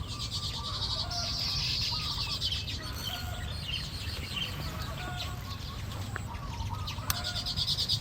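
Weaver birds chattering: fast buzzy high trills, several in a row, with shorter, lower chirps between them over a steady low rumble.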